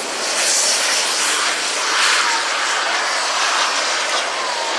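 Radio-controlled model aircraft taking off, its engine noise swelling and fading as it goes.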